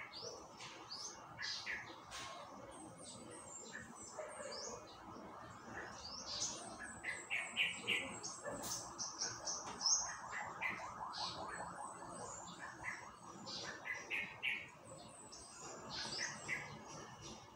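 Small birds chirping, many short high calls, some gliding down in pitch, thickest in the middle, over a faint steady hiss.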